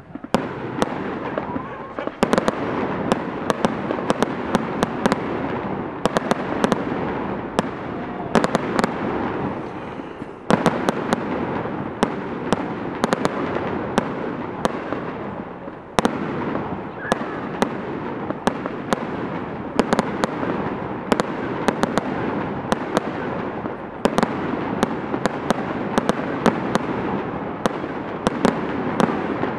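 Aerial fireworks display going off continuously: a dense crackle with many sharp bangs of bursting shells, surging louder a few times as new salvos go up.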